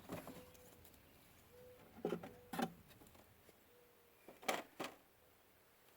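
Wooden hive frames being lifted out of a beehive box: a few sharp knocks and scrapes, two around two seconds in and two more past four seconds. Honeybees hum faintly in the background.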